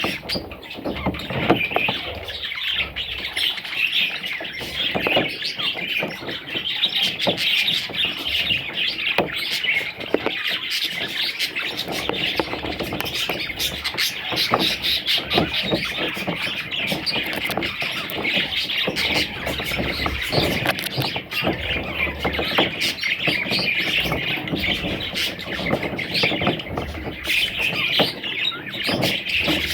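A group of budgerigars chirping and chattering without a break, many rapid overlapping chirps.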